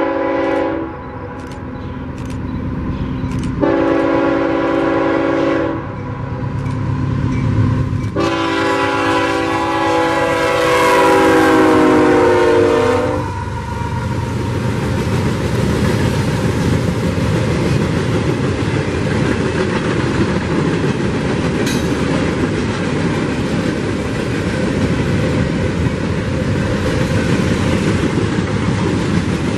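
CSX freight locomotive horn blowing for a grade crossing: a blast that ends just under a second in, a blast of about two seconds, then a long blast of about five seconds whose pitch sags at the end as the locomotive passes. After that come the steady rumble and clatter of coal hopper cars rolling by on the rails.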